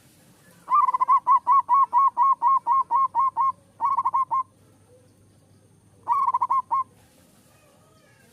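Zebra dove (perkutut) singing: a quick run of about fourteen even cooing notes at about five a second, then a short run of four or five, and after a pause of about two seconds another short run of five.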